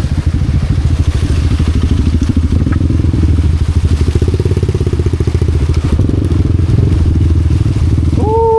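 Honda Wave 125 motorcycle's single-cylinder four-stroke engine running at low revs on a trail, with rapid, even firing pulses. The revs rise a little a few seconds in.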